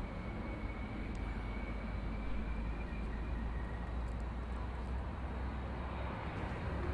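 Jet airliner engines running: a steady rush with a deep rumble and a thin high whine that fades out about three seconds in; the rumble drops away near the end.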